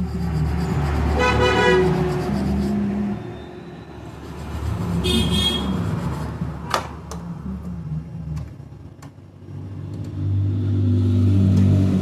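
Road traffic running, with two short vehicle horn honks, one about a second in and one about five seconds in, and a few sharp clicks in between.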